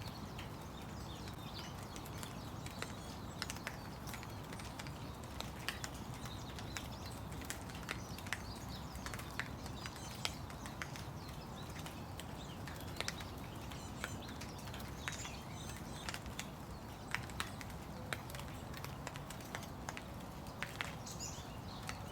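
Steady rain with irregular close drips and taps of raindrops landing nearby, and a few faint bird chirps now and then.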